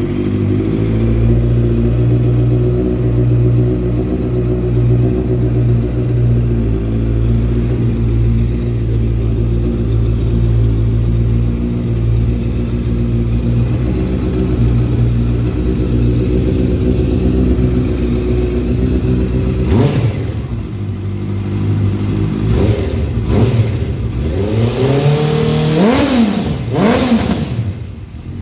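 2018 Honda CBR650F's 649cc inline-four engine idling steadily through a Yoshimura aftermarket exhaust, then revved several times with quick throttle blips in the last eight seconds.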